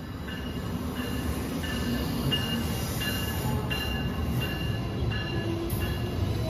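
A train approaching, its rumble growing steadily louder, with a bell ringing about three times a second.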